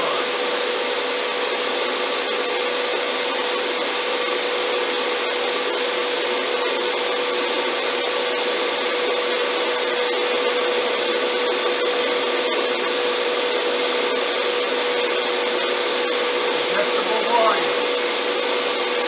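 1500-watt snow machine running steadily: an even blower rush with a constant hum and a faint high whine through it.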